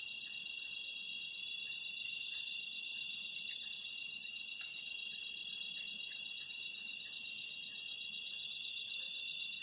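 Dense chorus of night insects in a tropical forest: a steady shrill trilling at several high pitches at once, with a faint quick pulsing above it.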